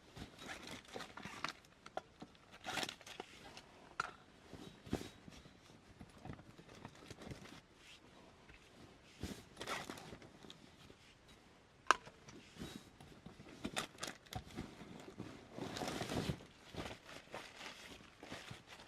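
Irregular rustling and crinkling with scattered sharp clicks and knocks, a longer rustle about sixteen seconds in.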